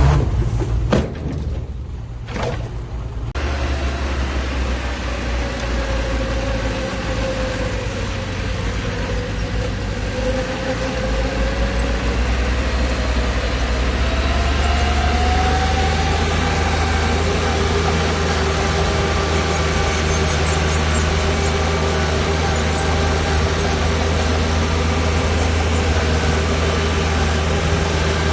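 Heavy diesel engine of earthmoving machinery running steadily, with a brief drop a second or two in and then a steady low engine note; its pitch drifts slowly up and down.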